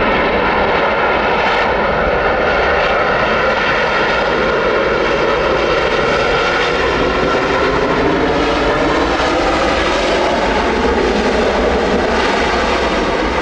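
Airliner engines running loud and steady: a dense rush of engine noise with several whining tones through it, some of which shift slightly in pitch about halfway through.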